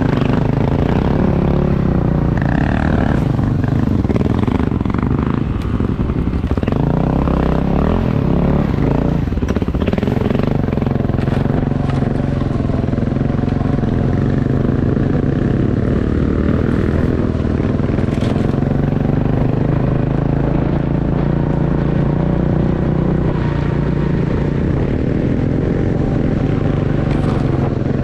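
Motorcycle engine running steadily under way, its pitch rising and falling a little as the bike rides on.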